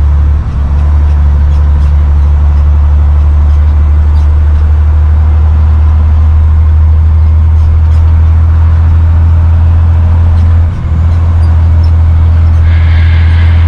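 Army truck driving on the road, heard from inside the cab: a loud, steady low engine and road drone. It dips briefly twice, and a short higher-pitched sound joins near the end.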